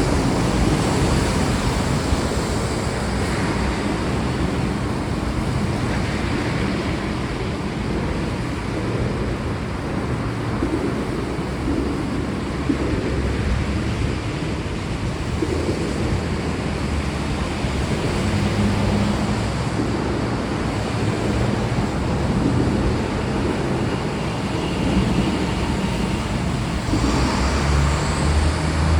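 Steady heavy rain, with a deep low rumble underneath that grows louder near the end.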